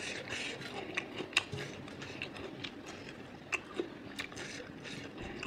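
Faint close-mic eating sounds of chewing pork intestine with rice: soft, irregular wet clicks and smacks scattered through.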